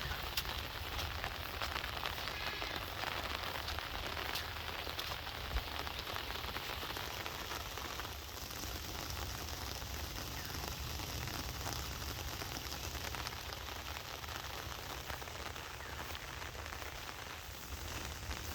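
Heavy rain falling steadily: a dense hiss of drops with many small close taps, and a low rumble underneath.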